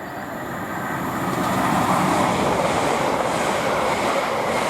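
LNER Azuma (Class 800-series) intercity train passing through the station. The rush of wheels on rail and air builds over about two seconds, then holds steady.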